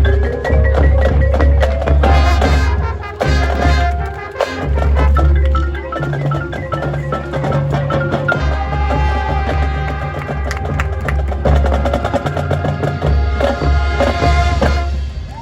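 Marching band playing a field show, with the percussion section's mallet keyboards and drums prominent over a heavy low bass.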